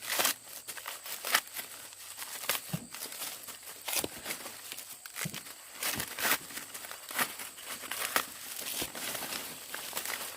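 Dry corn leaves and husks rustling and crinkling, with irregular sharp cracks, as ears of corn are broken off the stalks by hand.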